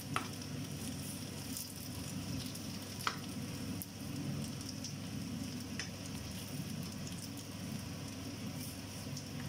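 Textured vegetable protein pieces with mala chili seasoning sizzling as they fry in a non-stick pan. They are stirred with a metal spoon that clicks against the pan about three times.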